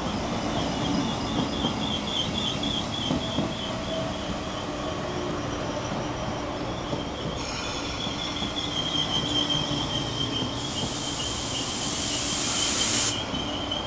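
Metro-Cammell MLR electric multiple unit train rolling slowly past at close range, with a rumble and a wavering high wheel squeal. About three-quarters of the way through, a loud hiss starts abruptly and cuts off after a couple of seconds.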